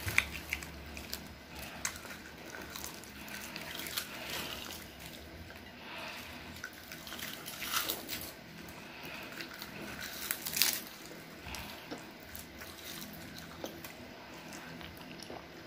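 Crisp roasted seaweed snack sheets being bitten and chewed close to the microphone: scattered crackles and wet mouth clicks, the loudest crunches about eight and ten and a half seconds in.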